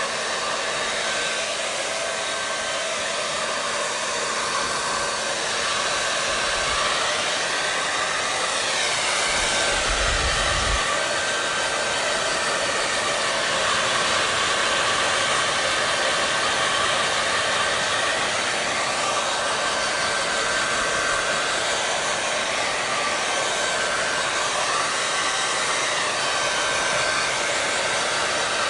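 Electric hair dryer running steadily: an even rush of blown air with a faint steady whine, its tone wavering slowly now and then. A brief low thump sounds about ten seconds in.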